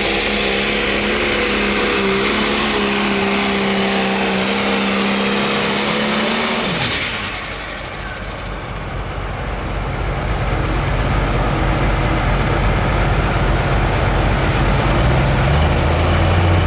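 Turbocharged diesel engine of a Pro Stock pulling tractor running flat out, a steady high pitch with a strong hiss. About seven seconds in the pitch and the hiss fall away sharply as the throttle comes off. A lower engine rumble then builds.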